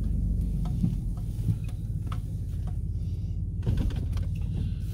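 Vehicle engine running steadily, a low hum heard from inside the cabin, with a few light clicks and knocks.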